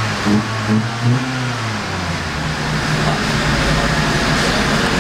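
A car engine running steadily, growing a little louder toward the end, with a man's voice speaking briefly at the start.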